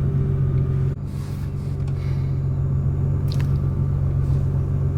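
Steady low rumble of a car's engine heard inside the cabin, with a faint tick a little over three seconds in.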